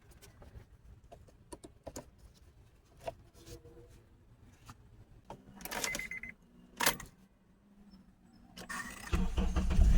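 Keys and small clicks as the car is keyed, then about nine seconds in the 2009 Honda Accord's 2.4-litre four-cylinder engine cranks briefly and starts, settling into a steady run now that the failed ignition-coil relay has been replaced.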